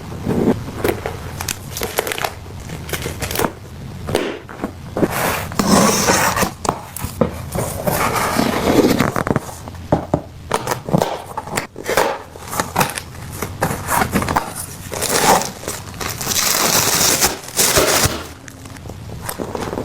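Plastic packaging crinkling and rustling, broken by many short clicks and knocks as items are handled and set down.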